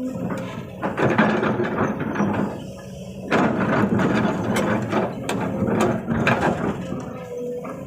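Hydraulic excavator at work: a steady engine hum under dense clattering and knocking, which eases briefly a little before the middle.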